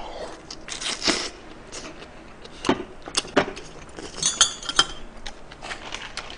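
Close-up chewing and lip-smacking on a mouthful of chicken wrapped in aged kimchi, a string of irregular wet clicks. Around four seconds in come a few light metallic clinks with a short ring, like a spoon touching a metal bowl or pot.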